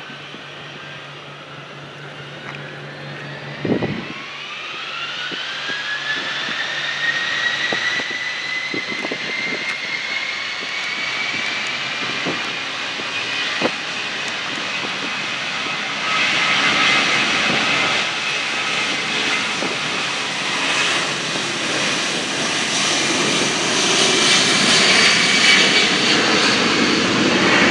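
Jet aircraft engines spooling up: a whine rises in pitch over several seconds, then holds steady while the engine noise keeps growing louder. A brief thump about four seconds in.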